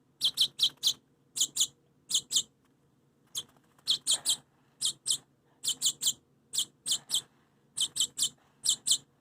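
Rescued baby bird chirping repeatedly, short high chirps in quick groups of two or three with brief pauses between: begging calls while being hand-fed.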